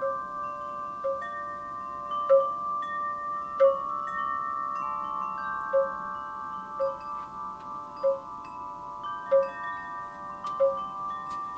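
Wind chimes struck irregularly by the breeze, a new strike about every second. Several pitched tones ring on long and overlap one another.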